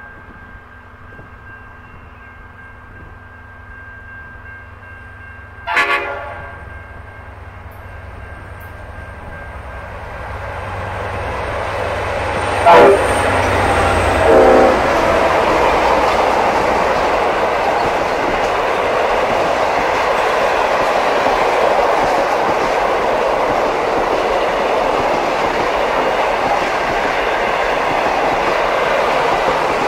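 A heritage passenger train hauled by two EMD bullnose diesel locomotives, A class A66 and S class S306, approaches and passes close by. There is a short horn blast about six seconds in, then the engines' rumble grows, with two more short horn blasts as the locomotives come level. After that comes a steady loud rush and clatter of the carriages rolling past.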